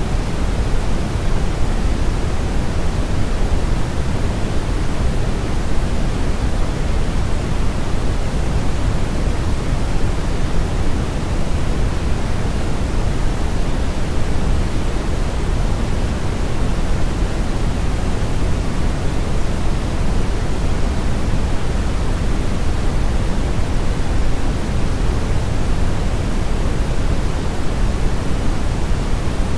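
Steady brown noise: a constant, even rumbling hiss weighted heavily toward the low end, with the highs rolled off.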